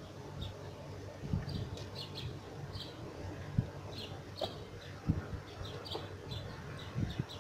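Small birds chirping in short, scattered notes, over a low rumble with occasional thumps on the microphone.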